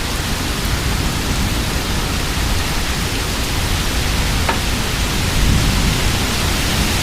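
Heavy wind-driven rain of a severe thunderstorm with strong wind gusts: a steady, loud rush of noise, with one faint click about four and a half seconds in.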